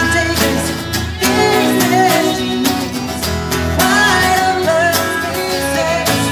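Live band playing a song, with a woman singing the lead vocal over the accompaniment and a steady beat.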